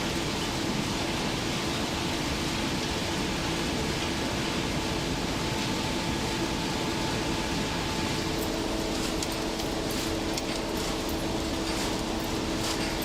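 Steady industrial machinery noise from scrap-metal sorting plant equipment, a dense even hum with faint tones, with light rattling ticks in the last few seconds.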